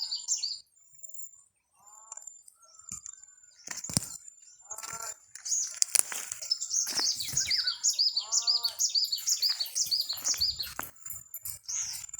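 Birds calling: a fast run of high chirps, loudest in the middle and latter part, over a lower call with a rich tone repeated about four times. Two sharp knocks come about four and six seconds in.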